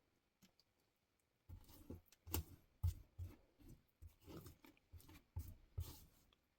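A run of irregular soft knocks and clicks, starting about one and a half seconds in.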